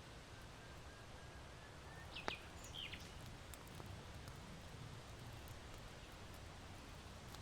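Faint hearth-and-nature ambience: a small bird gives a few quick high chirps about two seconds in, while charcoal in an irori hearth gives occasional soft crackling clicks, the sharpest together with the chirps, over a low steady rustle of wind.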